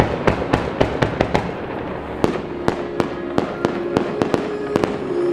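Fireworks going off in quick succession, a string of sharp bangs about four a second, with music playing underneath.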